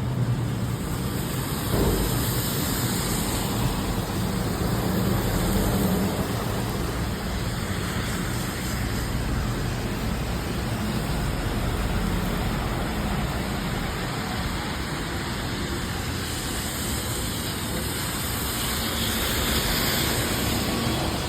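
Steady rain with road traffic, an even hiss that swells slightly about two seconds and six seconds in.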